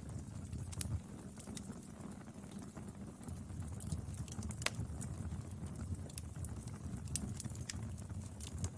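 Wood fire burning: a steady low rumble of the flames with sharp, irregular crackles and pops from the burning wood, one louder pop about halfway through.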